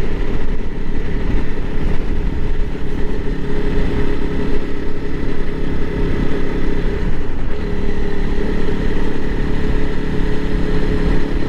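Honda CRF300L Rally's single-cylinder engine running steadily under way, a new engine being ridden gently through its break-in. The engine note drops about seven seconds in, then settles at a new steady pitch.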